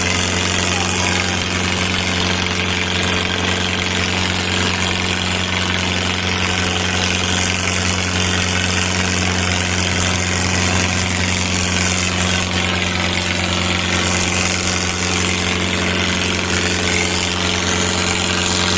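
Diesel tractor engines running at a steady, unchanging speed, a constant low drone with no revving.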